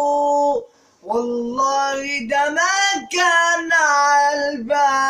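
Solo singing in an Egyptian mahraganat song: long held notes stepping between pitches, with a brief break just after half a second in and shorter gaps later.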